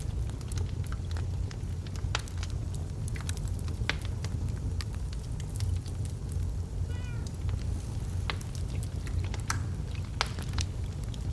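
Wood fire burning in a fireplace, crackling and popping irregularly over a steady low rumble. About seven seconds in, a brief pitched cry sounds once.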